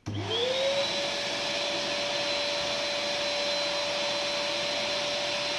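Ribimex Cenetop 1200 W electric ash vacuum switched on: its motor spins up within half a second to a steady high whine with rushing air, and runs at full speed.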